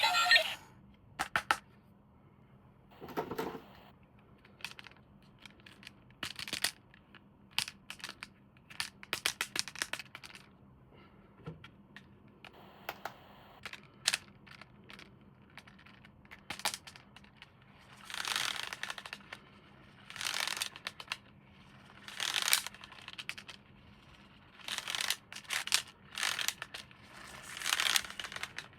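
Toy packaging being handled and opened: irregular clicks and taps of hard plastic with short bursts of crinkling and tearing of wrapping.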